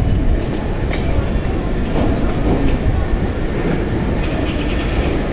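Hankyu 3300 series electric train running, a steady low rumble of wheels and running gear with a few faint clicks.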